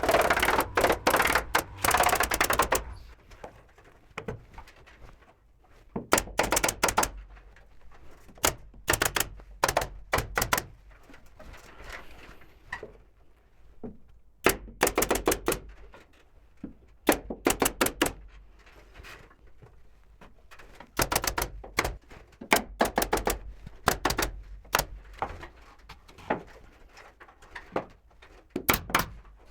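Carpentry work on wooden boards: sharp clicks and knocks in quick runs, several clusters separated by quieter gaps.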